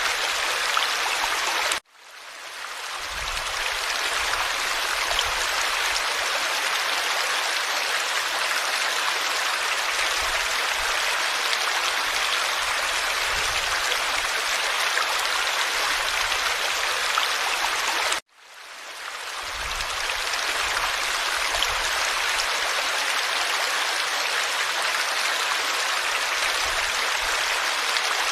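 Forest stream flowing steadily, a dense rushing babble of water. The sound cuts out suddenly twice, about two seconds in and again past the middle, each time fading back up over a second or two.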